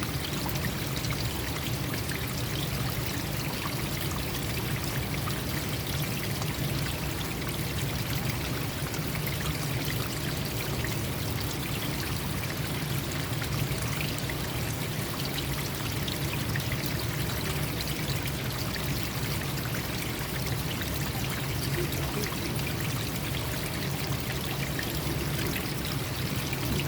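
Forest stream running steadily, water pouring and splashing over rocks in an even, unbroken rush.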